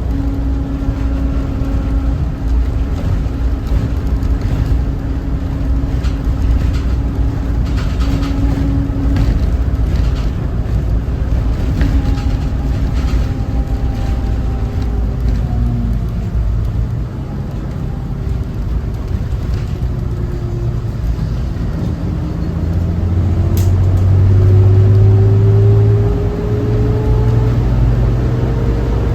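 Cummins ISB 6.7 diesel engine of a Thomas Saf-T-Liner C2 school bus running under way, heard with road rumble. The engine note holds steady, drops off a little past halfway, then rises steadily near the end as the bus accelerates.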